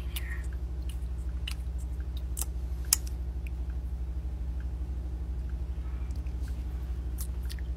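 Close-miked ASMR lip gloss application: scattered soft clicks of the applicator wand and the lips, with one sharp click about three seconds in, over a steady low hum.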